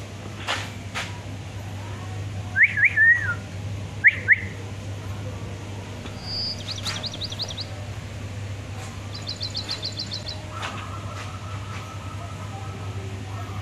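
Birds calling: two short bursts of loud, quickly rising and falling notes a few seconds in, then two rapid high trills of repeated notes, with a steady tone holding through the last few seconds. A constant low hum underlies it all.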